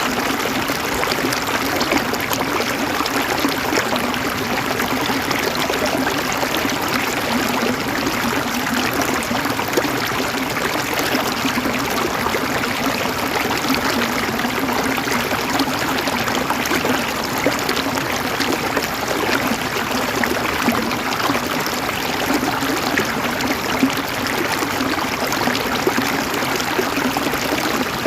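River water flowing and gurgling over stones in a steady, even rush.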